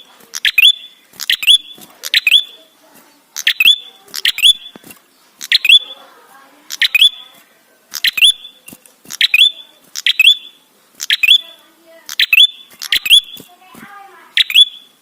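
Prenjak songbird calling loudly, a sharp rapid chirp repeated about once a second, played as a lure call to draw other prenjak into singing.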